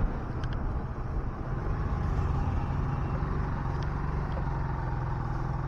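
Two-wheeler engine running steadily while riding, with road and traffic noise around it.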